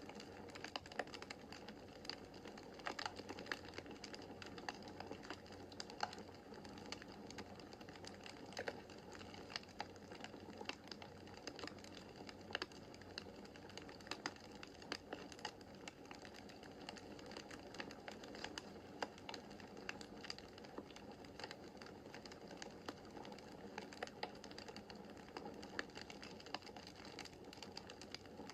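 Wood fire burning in a fireplace: a steady soft rush of flames with frequent irregular sharp crackles and pops from the burning logs.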